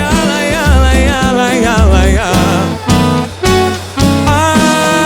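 Live pagode band playing, percussion and bass under a wavering melodic line, which settles into a long held note about four seconds in.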